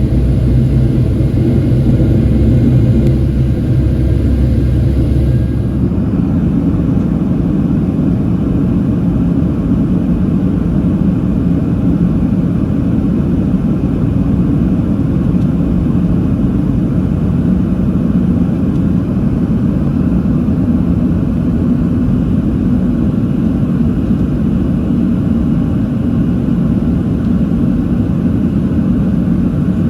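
Boeing 737-700 jet engines heard from inside the passenger cabin, a loud, steady rumble and hum. The deepest part of the rumble drops away about six seconds in, and a steadier hum carries on after it.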